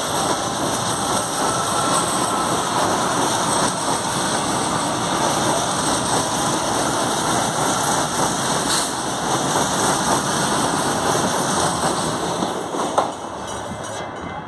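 Train running past close by: steady, loud wheel-and-rail and running noise, with one sharp click about thirteen seconds in, after which it begins to fade.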